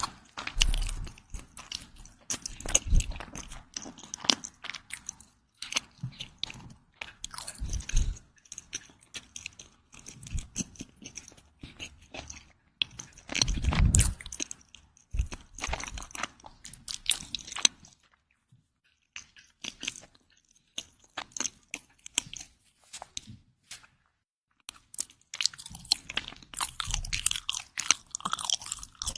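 Bread being bitten and chewed close to the microphone, with crisp crunching in irregular bursts and a couple of short pauses.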